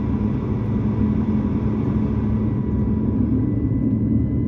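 Steady low cabin drone of an Airbus A220-300 on the ground, with faint steady whines on top.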